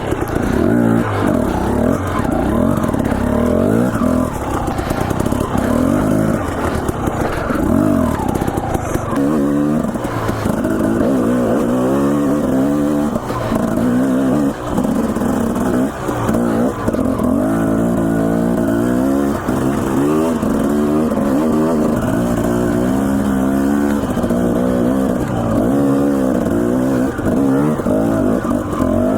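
Dirt bike engine running hard on a trail ride, the revs climbing and dropping again and again as the throttle is worked and gears change.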